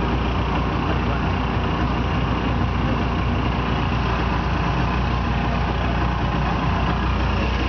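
Motorboat engine running steadily under way, with a constant rushing noise over it.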